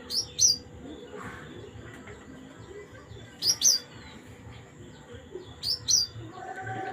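A songbird calling: a sharp pair of quick, high, falling notes, given three times about every two to three seconds.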